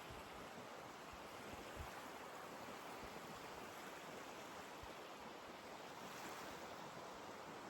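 Ocean surf washing on the beach, a faint, steady hiss of waves, with a few soft low thuds.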